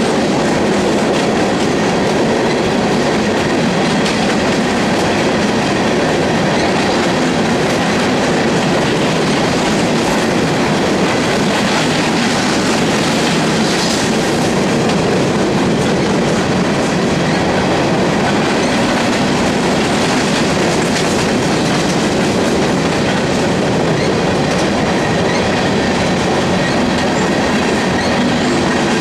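Empty coal hopper cars of a Union Pacific freight train rolling past, their steel wheels running steadily over the rails at an even, fairly loud level.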